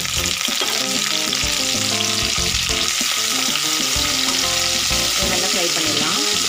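Chopped onion and curry leaves sizzling steadily in hot oil in an aluminium kadai, stirred with a perforated steel ladle.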